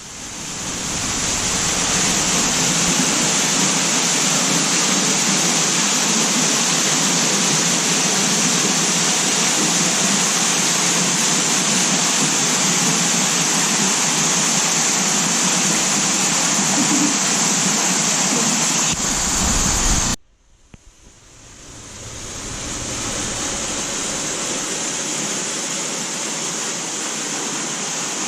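Waterfall: a steady rush of falling water that fades in at the start. About twenty seconds in it cuts off abruptly, then fades back in a little quieter.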